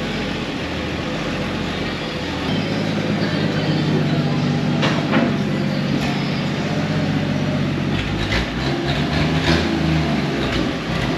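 1961 Chevrolet C-10's six-cylinder engine running, its speed changing about two and a half seconds in and again about eight seconds in.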